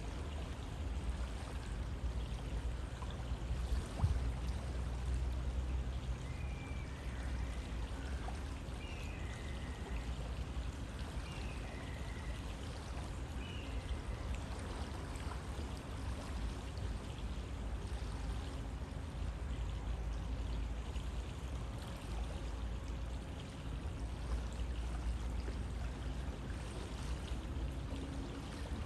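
River water flowing steadily, a constant rushing with a deep low rumble. A few faint short high chirps come through in the first half.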